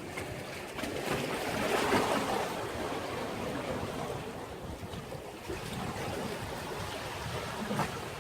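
Sea waves washing against a breakwater, a steady rushing wash that swells about two seconds in and then eases, with some wind on the microphone.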